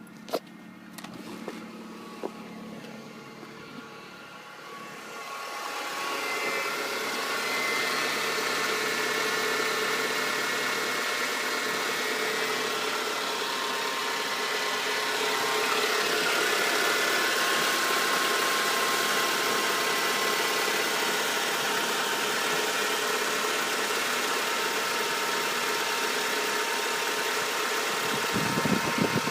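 Renault Megane 2.0 16v F4R inline-four petrol engine running just after a cold start. About five seconds in, a louder, steady whirring noise made of several held tones sets in and continues: the strange cold-start noise the owner is asking about, with its cause unknown.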